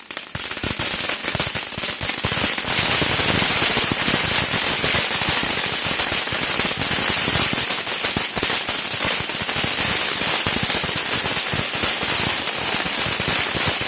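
A lit firework crackling and hissing without a break for about fourteen seconds, a dense rapid run of small pops over a steady high hiss, dying away at the very end.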